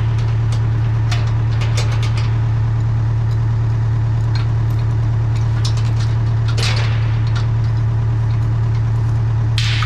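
Case 580K backhoe's four-cylinder diesel engine running steadily at idle, with a few sharp metallic clinks and clanks over it, the loudest about two-thirds of the way in and another near the end.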